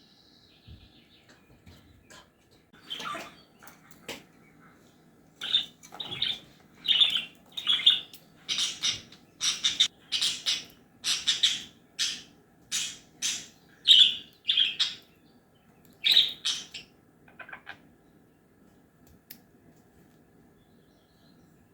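Pet parrot giving a long run of short, sharp squawking calls, about two a second, starting a few seconds in and stopping near the end.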